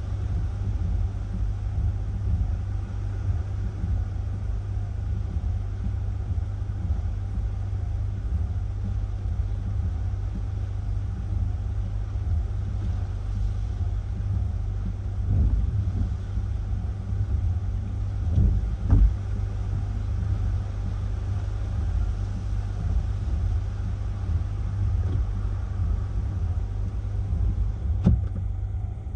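Hurricane-force wind buffeting the microphone as a steady low rumble, with stronger gusts about halfway through and again near the end.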